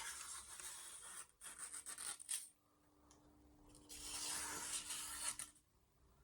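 A freshly sharpened carbon-steel knife edge push-cutting through paper, heard as three scratchy, papery passes. It is an edge test off the 3000-grit stone, which is passing.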